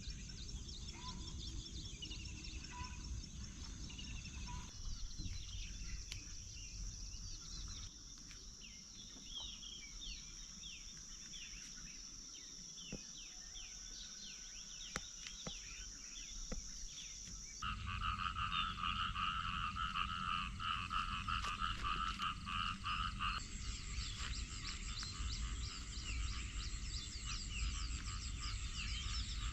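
A frog chorus croaking, with a steady high insect drone and birds chirping. The mix changes abruptly about 5, 18 and 23 seconds in, and the croaking is loudest from about 18 seconds on.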